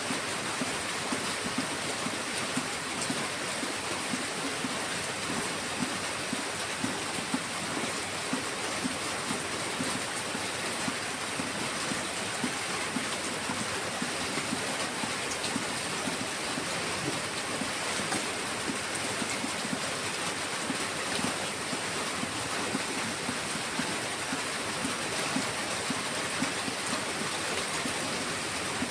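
Heavy rain falling steadily: a dense, even hiss full of small drop impacts.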